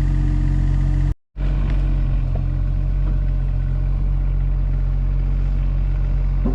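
An engine running steadily at a constant speed, cut off completely for a moment about a second in.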